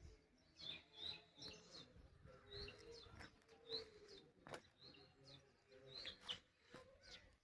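Small birds chirping faintly, a scatter of short, high chirps repeated throughout.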